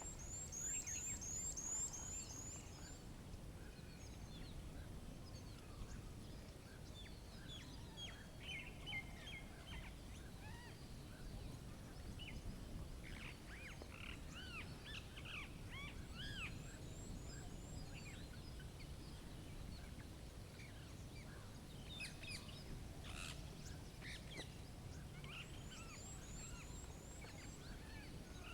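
Wild birds singing and chirping over a steady low rumble. A high, fast trill of about two seconds comes three times: at the start, about midway and near the end. Scattered lower chirps fall in between.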